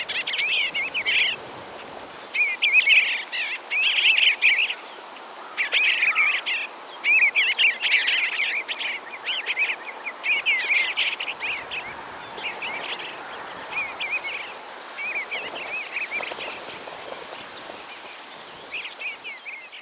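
Bluebird singing: short warbling phrases of quick, rapidly bending notes, repeated with brief pauses, growing softer in the second half.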